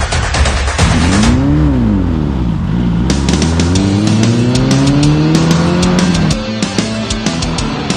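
An off-road race vehicle's engine revving, over music with a driving beat. About a second and a half in, its pitch climbs and falls once. It then climbs steadily for about three seconds and cuts off.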